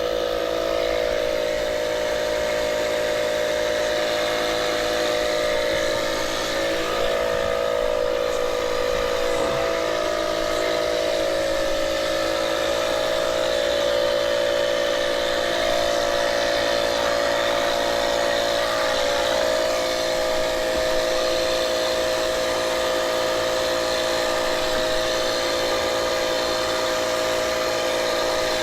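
Portable air compressor running steadily, inflating a flat tire; its pitch shifts slightly about 13 seconds in.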